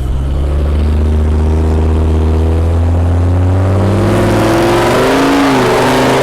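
Truck engine with its muffler removed, held at high revs for a burnout. From about four seconds in, the engine note climbs and wavers while a loud hissing tyre noise builds over it.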